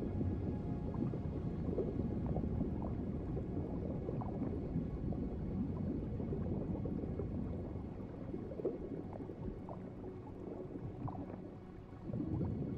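Muffled underwater ambience of bubbling, gurgling water. It eases off about two-thirds of the way through and swells back up just before the end.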